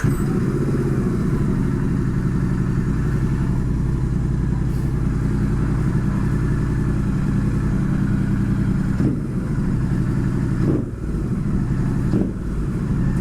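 Royal Enfield Continental GT 650's 648 cc parallel-twin engine starting and then idling through a pair of newly fitted Red Rooster stainless-steel aftermarket silencers. The idle is steady, with three brief dips in the last few seconds.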